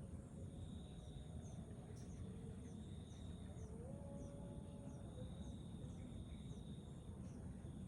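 Sparrow nestling begging from inside the nest: faint, short, high chirps, about two a second, steady and even. An insect's thin, steady buzz comes and goes behind it.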